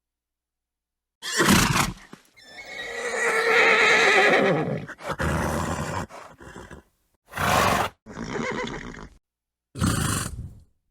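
Horse sounds: a short snort about a second in, then a long wavering whinny lasting about two and a half seconds, followed by several short snorts. Each sound is cut off by complete silence before the next.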